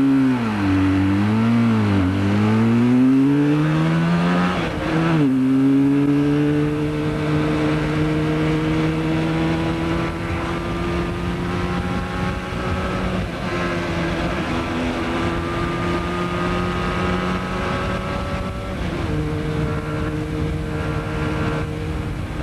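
Motorcycle engine heard from on board while riding: for the first few seconds it revs up and down, then it runs steadily with its pitch slowly rising, and it dips briefly near the end.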